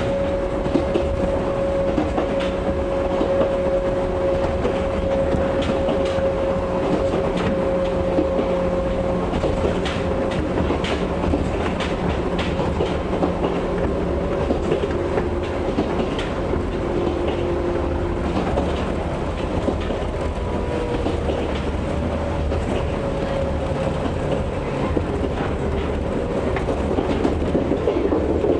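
Ex-JNR 101 series electric car's DC traction motors whining at a near-steady pitch while the train runs at speed, with wheels clicking over rail joints and a low running rumble.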